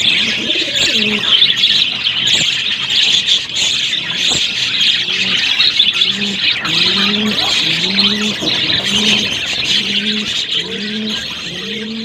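A flock of budgerigars chattering and chirping continuously. From about halfway through, a low cooing call repeats about every three-quarters of a second underneath.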